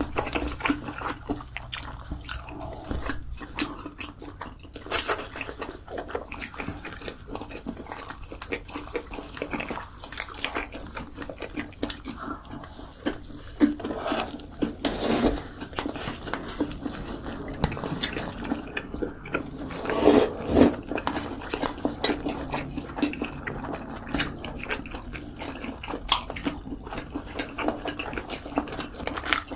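A person chewing and biting food: many short, irregular mouth sounds.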